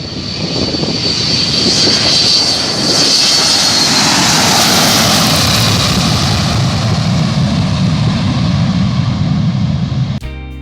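An airplane's engines at full power passing close by. A high whine falls slightly in pitch as the noise swells to its loudest around the middle, then a low rumble carries on until it cuts off near the end.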